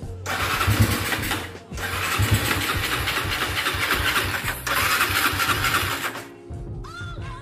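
Honda Tiger's single-cylinder four-stroke engine revved three times as the throttle is twisted at the grip, a test of the newly fitted throttle cable, which still opens the throttle too little. The revving stops about six seconds in.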